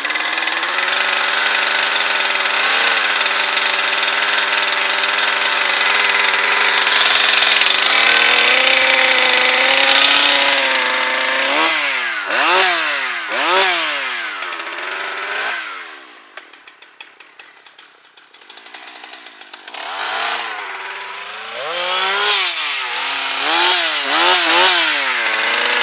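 Gasoline chainsaw running at high throttle for about ten seconds, then revved up and down over and over, dropping to a low idle near the middle before being revved again. The throttle is feathered to keep the saw from dying.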